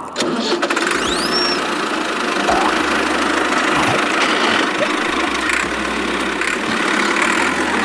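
A vehicle engine running steadily at a loud, even level, cutting in suddenly at the start, with a brief rising-then-falling whistle about a second in.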